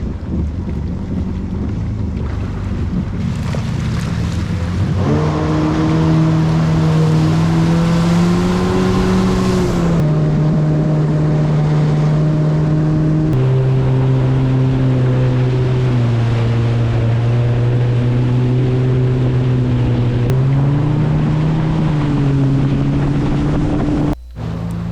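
Jet ski engine running at speed across the water, over a rush of wind and water; the engine pitch steps up and down several times.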